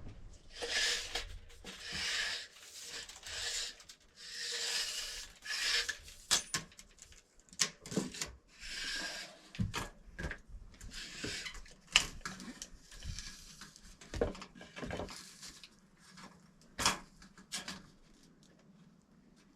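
A series of rasping, rubbing strokes against wood, roughly one a second, then scattered sharp clicks and knocks as it thins out near the end.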